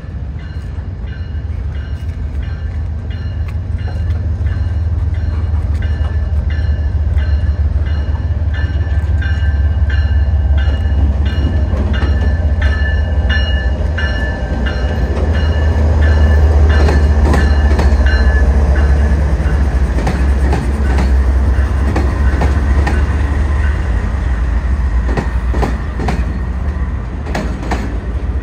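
Norfolk Southern diesel freight locomotives pass close by with a deep engine rumble that is loudest about halfway through, with a thin high squeal over it in the first half. Then the autorack cars roll past, their wheels clicking over the rail joints.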